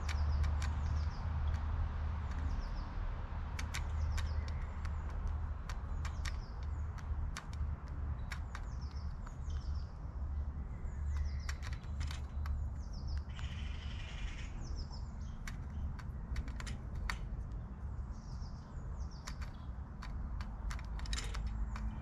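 Birds chirping in short, high, falling notes, over many irregular sharp taps and a steady low rumble. About fourteen seconds in there is a brief harsh rasp.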